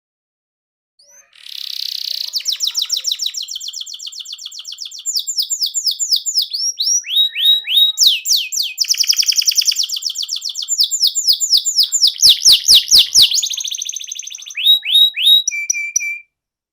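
Domestic canary singing a long, fast song of rapid trills and quickly repeated rising notes, starting about a second in and cutting off suddenly near the end.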